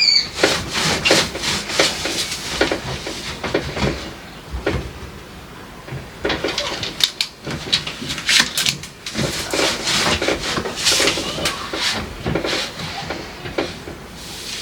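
Objects being handled in a kitchen: a busy string of knocks, clinks and scrapes, like containers and shelves being moved and set down, easing off for a couple of seconds midway before picking up again.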